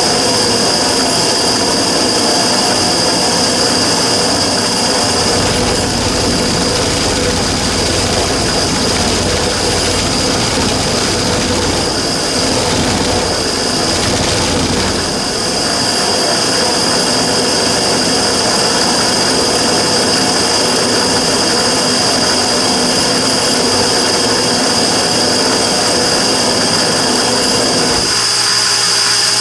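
Immersion tube burner running with a steady combustion roar and a constant high-pitched whine: the abnormal noise the burner is recorded for. A deeper rumble swells for several seconds in the middle, and the lower part of the sound shifts shortly before the end.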